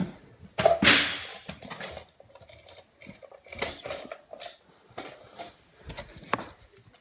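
Irregular clicks and knocks from a 1/10 scale RC rally car being run indoors, with a louder clattering burst about a second in.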